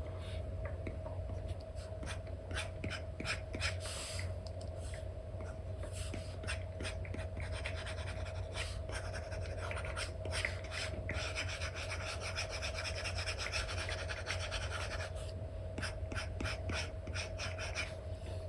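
Stylus nib scratching and tapping on a paper-like matte screen protector: many short strokes and taps, with a longer run of continuous rubbing strokes around the middle. A steady low hum runs underneath.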